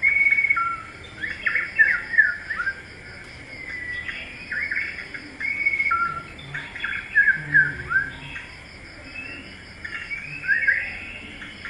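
Small birds chirping and twittering in quick, repeated bursts of short gliding notes, over a steady, faint, high insect drone.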